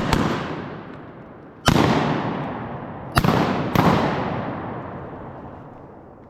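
Volley of shotgun shots during a duck hunt: one right at the start, another about one and a half seconds in, then two close together about three seconds in. Each crack is followed by a long, slowly fading echo.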